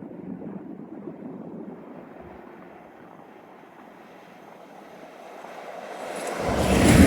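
Pair of Class 69 diesel locomotives approaching on a railhead treatment train: a distant rumble grows and, about six seconds in, turns suddenly loud with a deep engine hum as they come close.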